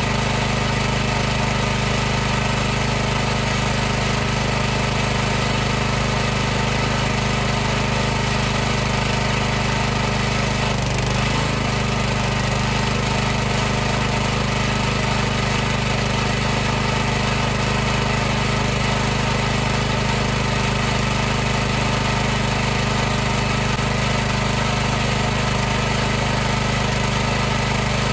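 High-pressure washer running steadily: a constant hum from its motor and pump under an even hiss. The pitch wavers briefly about eleven seconds in.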